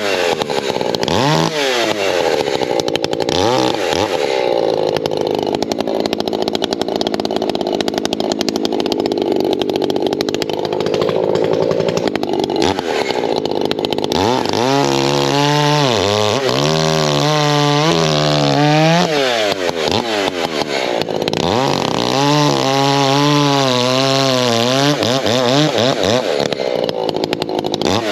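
Echo two-stroke chainsaw cutting firewood logs. It is held at high revs under load through a long cut, then the throttle is revved up and down repeatedly between cuts.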